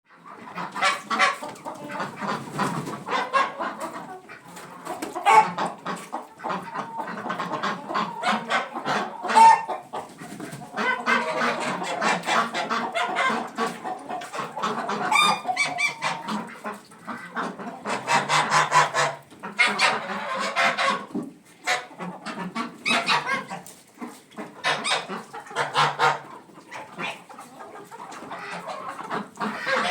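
A flock of chickens clucking over one another in short, overlapping calls, with a few louder squawks.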